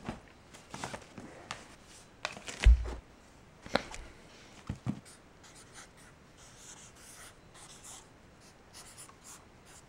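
Scattered rustling, scraping and light knocking of things being handled, with one heavy low thump about three seconds in.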